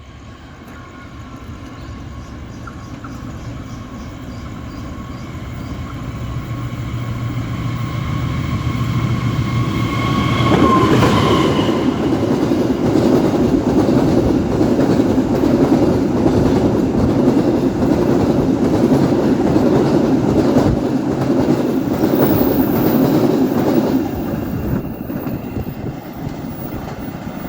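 A train approaching and passing close by, with a strange steady whine that drops in pitch as the locomotive goes past about eleven seconds in. Then the cars rumble and clack by, and the sound eases off near the end.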